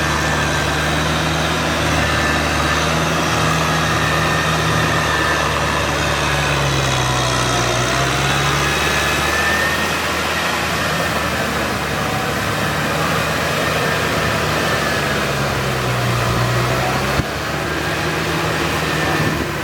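Kubota tractor's diesel engine running steadily, its note dropping and recovering twice as the engine speed changes.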